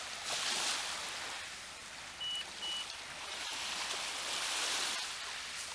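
Sea water washing and hissing in two surges, one just after the start and a longer one near the end, with two short high peeps in the middle.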